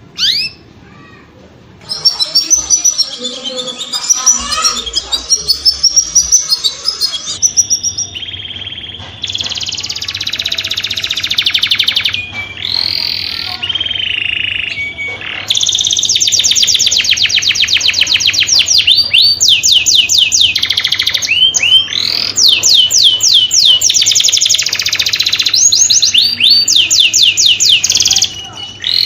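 Canary singing: two short rising chirps, then a long, loud song of fast trills and rolls, runs of rapid high sweeping notes that switch abruptly from one pattern to the next.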